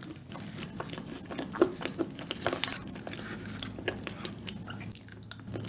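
Close-up mouth sounds of someone eating a chilled, partly frozen cup dessert: chewing with many small wet clicks and smacks, one sharper click about a second and a half in.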